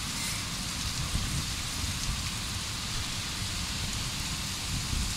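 Heavy rain falling steadily: a continuous hiss of rain with a low rumble underneath.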